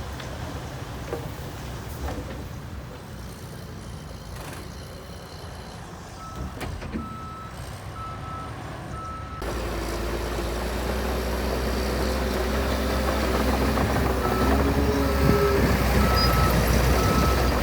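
Reversing alarm on heavy earthmoving equipment beeping at one steady pitch, about two beeps a second, over a diesel engine running. About nine seconds in the engine sound jumps louder and carries a steady whine, and the beeping goes on.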